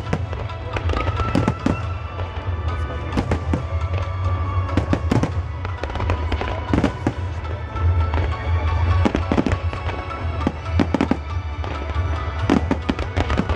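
Aerial fireworks display, shells bursting and crackling again and again in quick succession over a steady low rumble.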